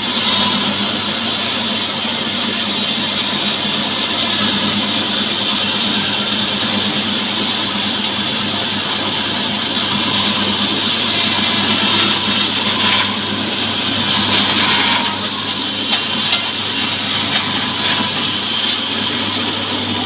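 Petrol engine of a portable sawmill running steadily while the saw cuts through a mahogany log to make boards. A few short sharp knocks come near the end.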